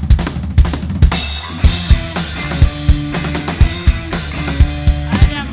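Band music: a drum kit keeps a steady beat of about two hits a second with kick and snare, a cymbal wash in the first half, and pitched instruments holding notes over it.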